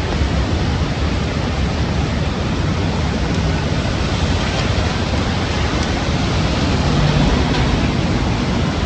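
Heavy rain pouring steadily in strong wind: a dense, even hiss with a low rumble of wind underneath and faint scattered drop ticks.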